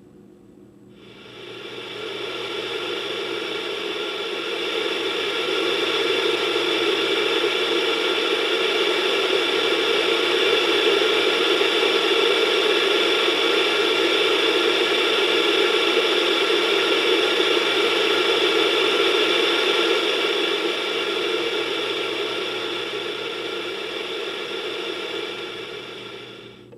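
Old analog TV static: a steady hiss of white noise that swells in over the first couple of seconds and drops away near the end.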